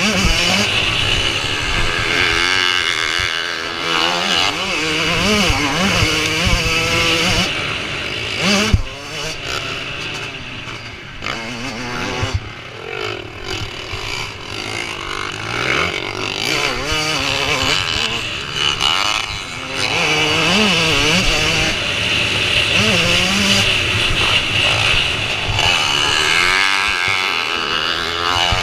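Several motocross bikes racing, their engines revving up and down through the gears as they pass, the pitch rising and falling throughout. A sharp knock about nine seconds in.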